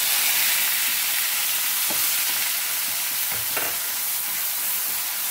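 A wet ginger, garlic, green chilli and onion paste sizzling in hot mustard oil, the sizzle flaring up as the paste goes in. A wooden spoon stirs it, tapping the pan a few times.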